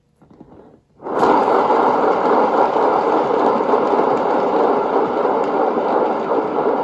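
Hairdryer switched on about a second in, then blowing steadily with an even rush of air and a faint motor hum, blowing the paint out into a bloom.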